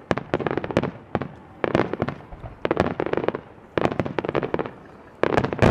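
Starmine fireworks barrage: aerial shells bursting in rapid volleys of sharp bangs and crackles, a fresh cluster about every second.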